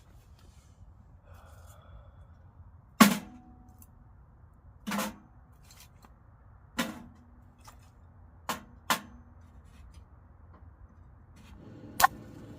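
Six sharp knocks or chops at uneven intervals, the first the loudest, some followed by a short low ring.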